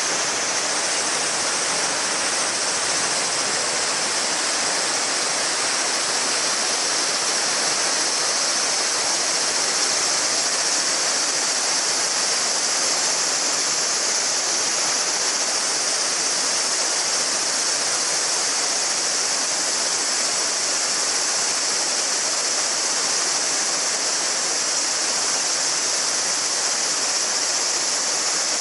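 A shallow mountain river babbling steadily over stones, with a dense chorus of cicadas droning in a high, even band over it.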